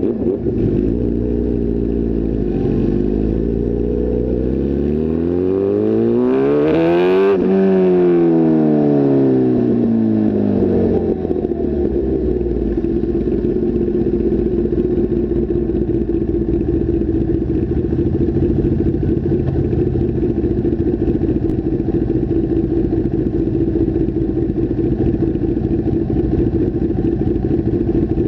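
Sport motorcycle engine from the rider's seat: running steadily, then revving up in one smooth rise in pitch that peaks about seven seconds in and falls away by about eleven seconds, then back to a steady run in slow traffic.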